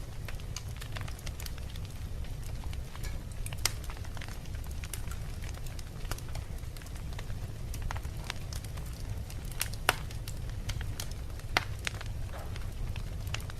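Wood fire burning in a fireplace: logs crackling with scattered sharp pops over a steady low rumble of the flames, a few louder pops about a third of the way in and twice near the end.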